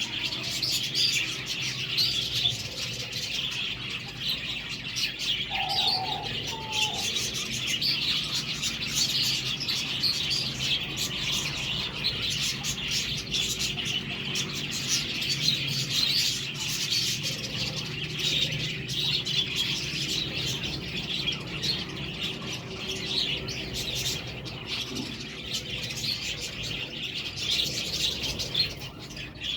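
A flock of budgerigars chattering and warbling continuously, with two short, lower whistled notes about six seconds in.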